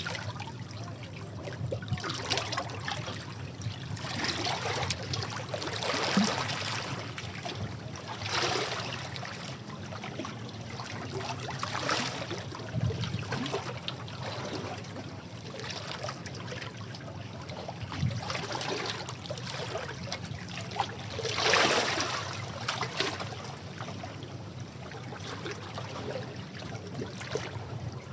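Sea waves breaking and washing over rocks: a steady wash of water, swelling into a splashing surge every few seconds, the strongest about three-quarters of the way through.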